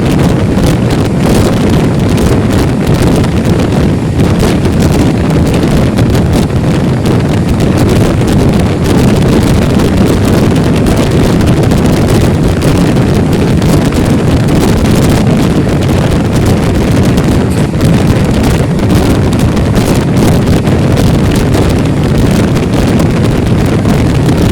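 Loud, steady rumble of a moving express passenger train, with wind buffeting the microphone.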